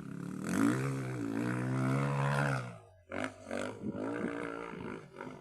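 A dog's long, drawn-out growling howl that rises at the start and then holds for about two seconds, like a motorcycle engine revving, followed by several shorter growls.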